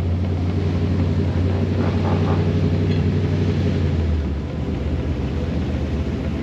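Car engine running steadily as the open roadster rolls slowly in a line of traffic, a low rumble that eases off a little about four seconds in.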